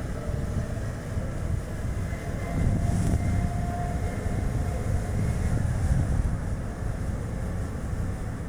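Strong gusting wind rushing over the microphone, mixed with the road and tyre noise of a Chevrolet Spark driving. The gusts swell from about two and a half seconds in and ease off after about six seconds.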